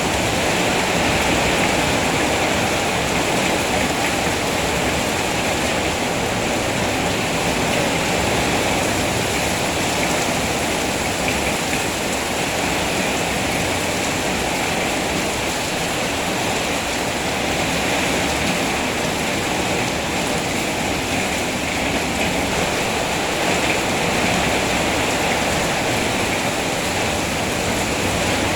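Steady heavy rainfall, a dense even hiss of rain with no distinct drops.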